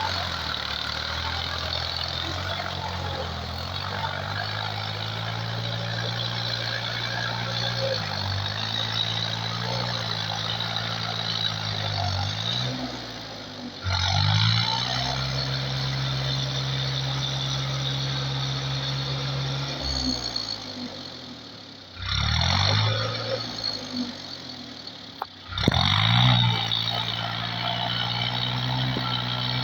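Power tractor engine running steadily, its revs dropping away and picking up again several times, with sudden louder bursts of revving twice in the last third.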